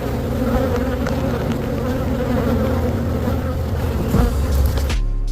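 Many honeybees buzzing steadily around an opened hive, a dense, even hum. Near the end the higher part of the sound drops out abruptly.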